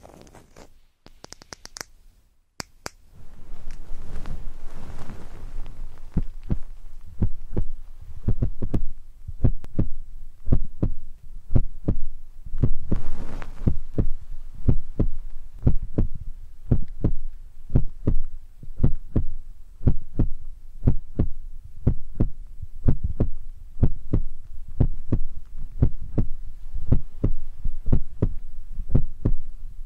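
Fingers tapping a binaural ear microphone in a steady heartbeat rhythm: dull low thumps at about two a second, beginning a few seconds in after a moment of faint rustling.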